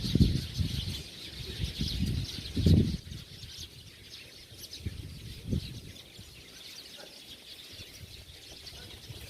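Many small birds chirping together in a dense, unbroken chatter. Low rumbling thumps break in over the first three seconds and again about five seconds in, the loudest just before the three-second mark.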